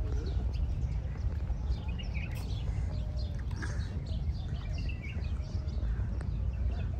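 Many birds chirping and calling, short high notes scattered throughout, over a steady low rumble.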